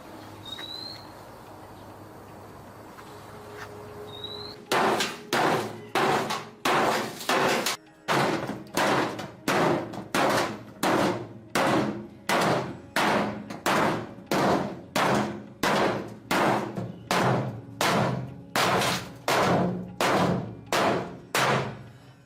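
Steady run of hammer blows, about one and a half a second, starting about five seconds in, each blow ringing briefly before the next.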